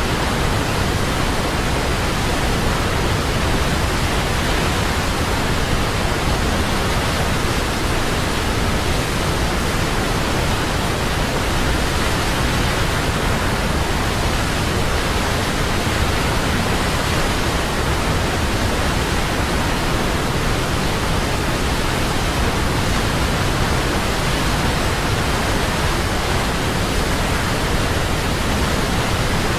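Large waterfall: a loud, steady rush of falling water, spread evenly from deep rumble to high hiss, with no change.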